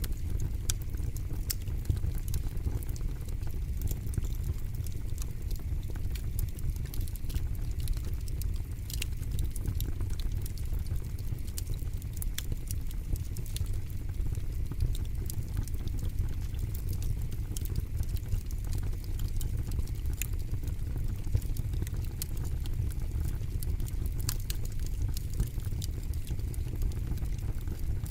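Wood fire burning in a fire pit, with frequent sharp crackles and pops over a steady low rumble.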